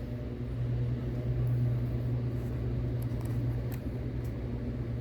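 Vehicle engine idling, heard as a steady low hum from inside the cab, with a few faint ticks partway through.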